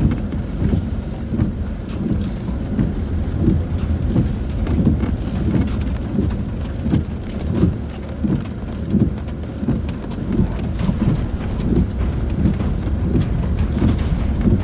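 Inside a Land Rover Discovery 4's cabin: a low rumble from the vehicle crawling over a rough, rocky track, with repeated low thuds and jolts a few times a second and rain pattering on the bodywork.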